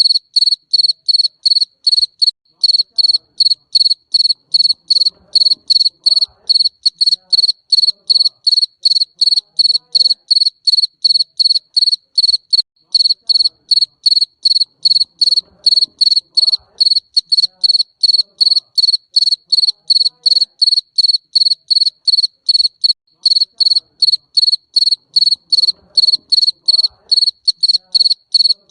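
Garden cricket chirping steadily, a high ringing trill in even chirps about three a second.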